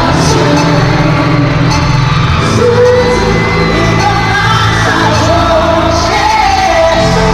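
Live pop song played loud over an arena sound system, with a man's voice singing and fans in the crowd shouting and screaming along.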